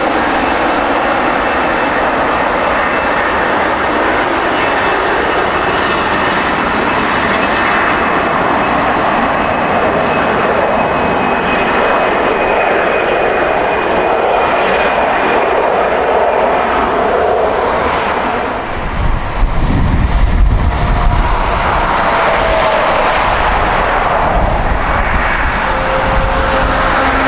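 Jet airliner engines, loud and steady, with a deep rumble swelling about two-thirds of the way through and a thin high whine that drops in pitch.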